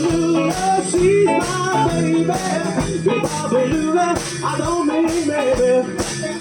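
Live rock and roll band playing an instrumental break, with electric lead guitar soloing in bending, sliding phrases over bass and drums keeping a steady beat.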